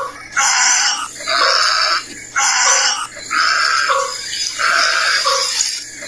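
A bird giving a run of harsh, grating calls, about one a second.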